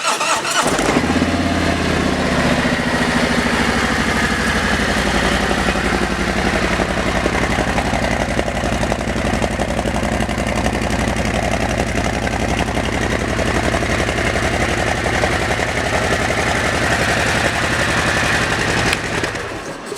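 Harley-Davidson Milwaukee-Eight 107 V-twin on a 2017 Street Glide, running through an aftermarket Screamin' Eagle exhaust. It comes in with its revs higher and settles within about two seconds into a steady idle.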